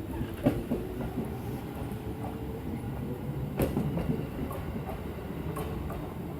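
Senseki Line electric train pulling away from the station: a low rumble with a motor whine slowly rising in pitch, and a few sharp clicks from the wheels.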